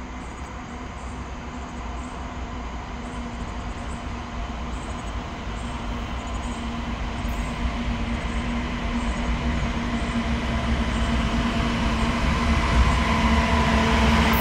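Norfolk Southern diesel freight locomotives approaching with engines running steadily, growing steadily louder as they come close. Wheel-and-rail noise swells near the end as the lead unit draws level.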